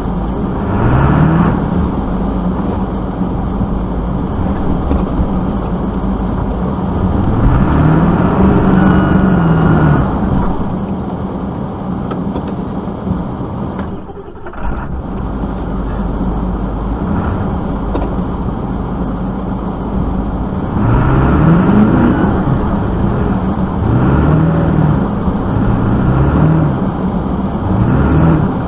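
Motor vehicle engine running over a steady low rumble, revving up in about half a dozen separate bursts, each rising in pitch and then easing off.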